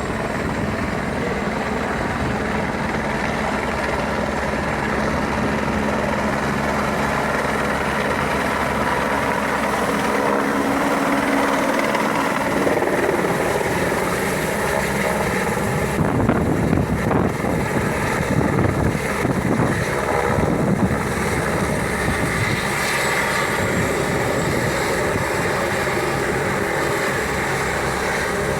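Helicopter turbine and rotor running steadily, with a rougher, louder stretch of low rumbling from about 16 to 21 seconds in.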